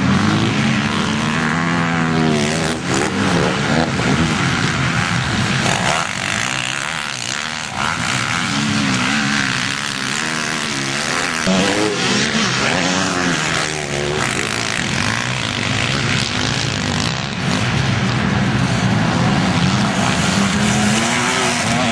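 Several motocross bikes racing, their engines revving up and down with the gearshifts as they ride past, overlapping one another throughout.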